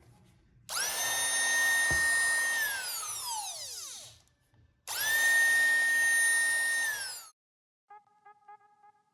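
Electric horse clipper motor switched on twice. Each time it comes straight up to a steady high whine, runs for about two to three seconds, then falls in pitch as it winds down after being switched off. The first run-down is the longer one.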